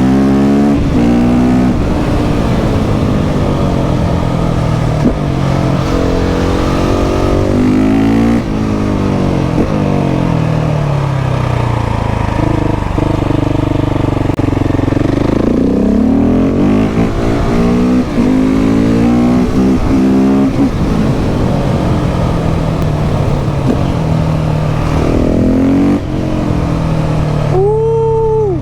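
KTM 690 SMC R's single-cylinder LC4 engine with an aftermarket Leo Vince exhaust, under way and accelerating hard: the exhaust note climbs with the revs and drops at each gearshift, over and over, with stretches of easing off between. Near the end the sound briefly drops to a single rising-and-falling tone before picking up again.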